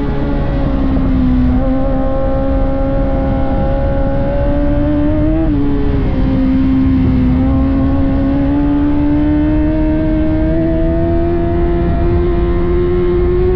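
600cc-class sportbike inline-four engine at high revs under racing acceleration. The pitch climbs slowly, dipping at two gear changes, about one and a half seconds in and again about five and a half seconds in.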